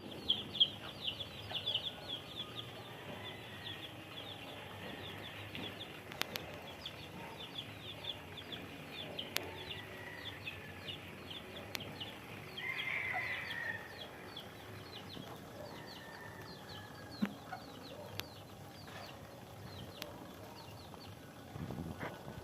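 Birds chirping: a steady run of short, high, downward chirps repeating throughout, with a louder, harsher call lasting over a second about midway.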